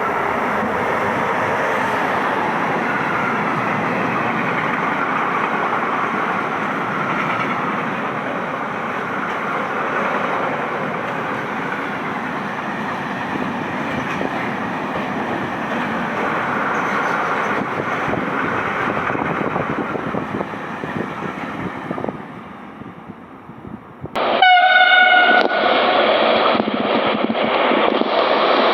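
Freight train rolling past at speed: a long, steady rush of wagons on the rails that fades out about three-quarters of the way through. Then a train horn sounds once, briefly, and another freight train's loud rolling noise follows.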